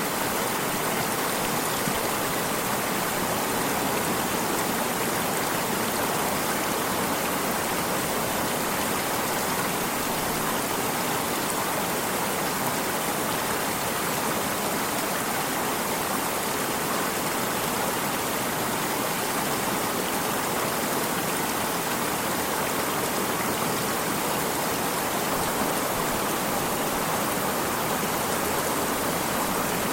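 Water stream flowing: a steady, even rush of running water with no change.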